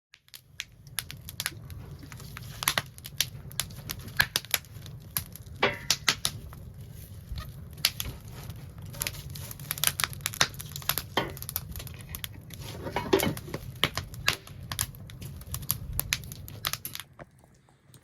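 Wood fire crackling and popping, a busy run of sharp snaps over a low steady rumble of the burning, dying down near the end.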